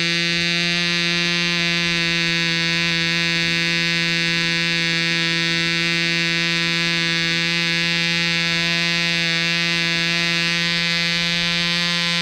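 Webra 1.5 cc two-stroke model airplane diesel engine running at high speed: a steady, even, high-pitched buzz that holds one pitch throughout.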